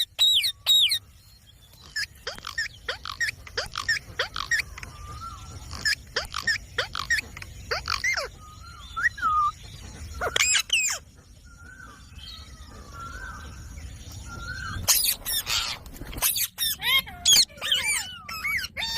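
Indian ringneck parakeet calling: short, sharp, high calls that slide in pitch, coming in clusters, busiest about halfway through and again over the last few seconds.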